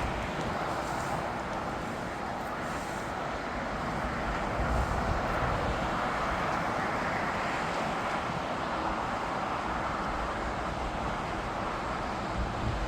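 Steady airport rumble: a continuous rush of distant jet engines mixed with road traffic, swelling slightly around the middle.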